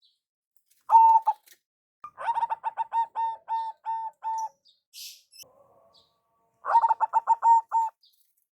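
Zebra dove (perkutut) cooing: a short call about a second in, then a run of about ten quick staccato coos that slows toward its end, and a second quick run near the end. A brief hiss comes between the runs.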